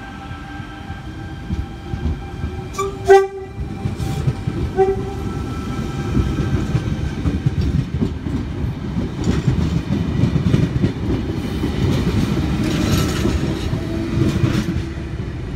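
Intercity V-set double-deck electric train departing and passing close by. About three seconds in it gives a very short horn toot, then its rumble and wheel clatter build as the carriages roll past.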